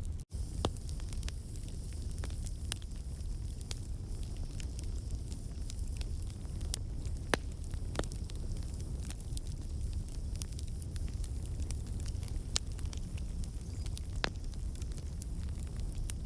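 Wood campfire burning: logs crackling with scattered sharp pops over a steady low rumble of the flames. The sound drops out for an instant just after the start.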